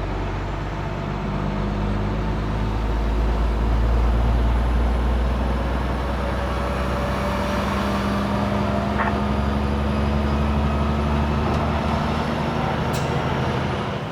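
Heavy truck's diesel engine running under way, heard from inside the cab, with tyre and road noise. The engine note steps to a new pitch a few times as the driver works through the gears.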